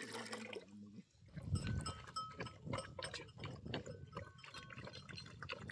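Small farm livestock bleating and moving, with scattered clicks and brief high, bell-like tones.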